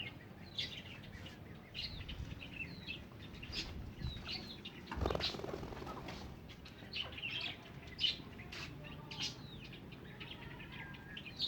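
Birds chirping in short scattered calls, with a brief flurry of wing flapping about five seconds in.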